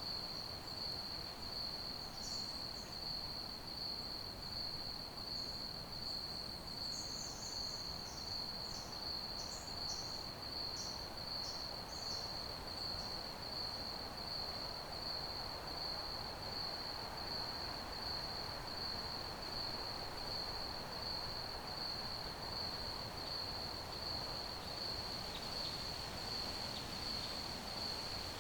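Crickets chirping in a continuous, rapidly pulsing high trill, over a faint hiss of background noise. Brief higher chirps from another insect or bird come and go in the first half.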